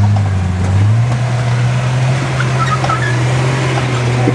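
Off-road vehicle engine running under steady load. Its drone steps up in pitch about a second in, then holds even.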